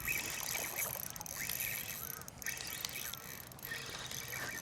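Outdoor ambience with birds chirping several times over a steady high hiss.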